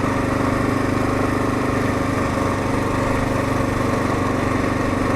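2022 Kawasaki KLR650's single-cylinder four-stroke engine running at a steady, unchanging pitch while the motorcycle cruises.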